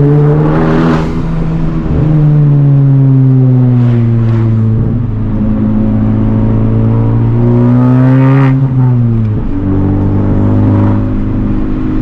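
Turbocharged four-cylinder of a modified Honda Civic Type R with a catless downpipe and resonator delete, revving hard. Its pitch climbs twice and drops sharply after each climb as it shifts or lifts, with short bursts of noise near the top of each pull.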